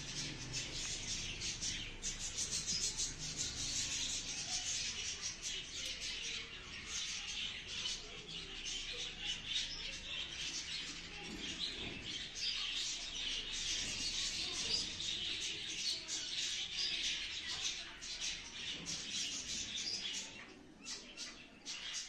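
Many small birds chirping continuously, a dense overlapping chatter of short high calls that thins briefly near the end.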